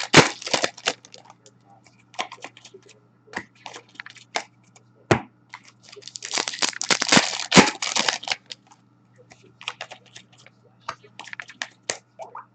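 Hockey card packs being torn open and their wrappers crinkled, with cards handled and flicked: irregular bursts of crackling and sharp clicks, heaviest about six to eight seconds in, over a faint steady hum.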